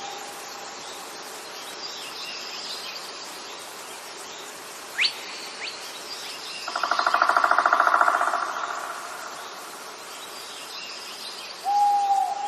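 Outdoor nature ambience of bird calls: a long, steady whistled call at the start and again near the end, a quick rising chirp about five seconds in, and a loud, fast-pulsing trill in the middle over faint background chirping.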